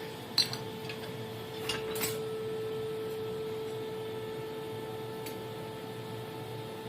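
A steady hum of one tone with faint overtones, with two light clinks of metal tools about half a second and two seconds in.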